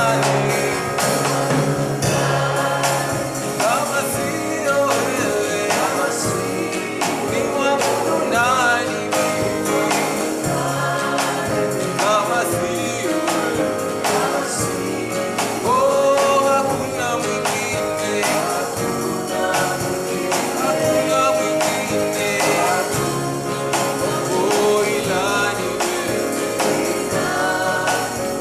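Live gospel worship music: a group of singers over a steady beat with tambourine-like jingles.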